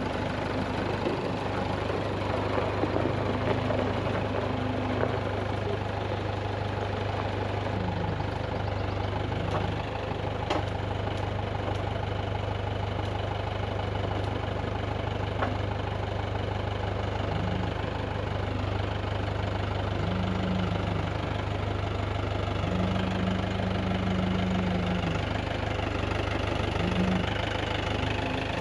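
Engine running steadily at an even speed, a constant low drone that does not change.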